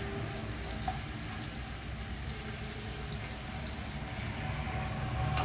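Sliced onions, green chillies and ginger sizzling in hot oil in a non-stick frying pan, stirred with a wooden spatula. A steady low hum runs underneath.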